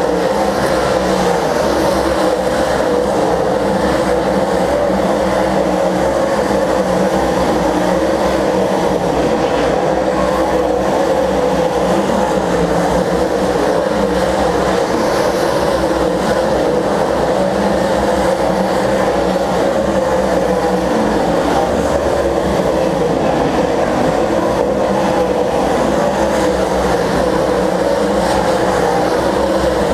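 A field of stock cars racing around the track, many engines blending into one steady, loud drone.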